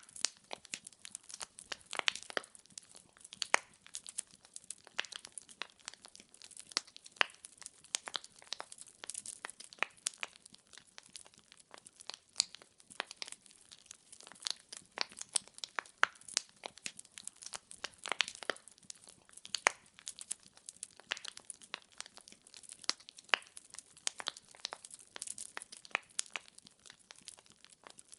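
Wood fire in a fireplace crackling steadily: irregular sharp pops and snaps of burning logs, several a second, over a faint hiss.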